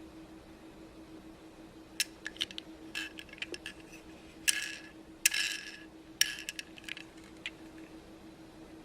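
Die-cast toy car being handled: a series of sharp clicks and short clatters over about five seconds, over a faint steady hum.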